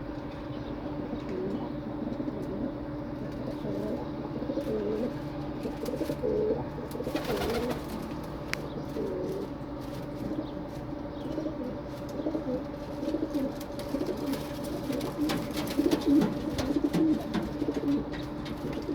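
Domestic pigeons cooing, several birds calling over one another, over a steady low hum. A brief rustle comes about seven seconds in.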